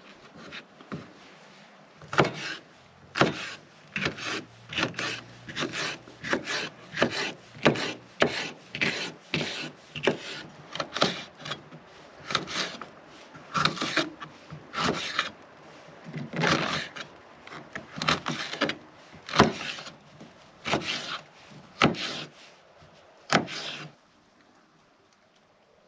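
Knife chopping on a cutting board in a run of sharp, separate strokes, roughly one every half second to second, stopping about two seconds before the end.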